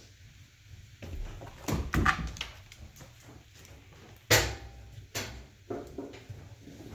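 Chunks of firewood being loaded into the firebox of a Regency i2450 wood-burning fireplace insert: a series of knocks and thuds as the logs are set in, with the loudest, sharpest knock about four seconds in.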